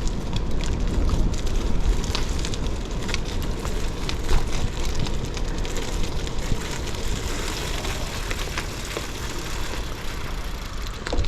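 Gravel bike tyres crackling and crunching over snow and ice, with many small clicks and rattles over a steady low wind rumble on the microphone.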